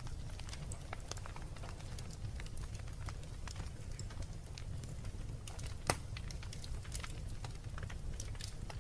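Wood fire burning in a fireplace, crackling with scattered sharp pops over a steady low rumble; one louder pop about six seconds in.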